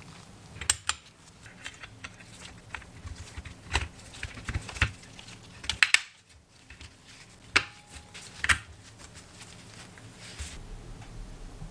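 Scattered sharp clicks and light metal clinks of small parts and tools being handled, irregular and a few seconds apart, over a steady low hum.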